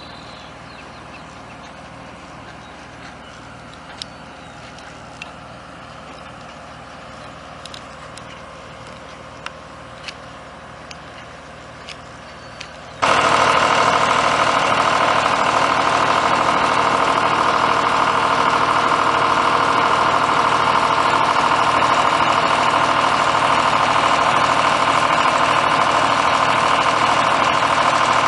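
A faint steady engine hum with a few light clicks, then about halfway through an abrupt switch to a loud, steady engine running close by.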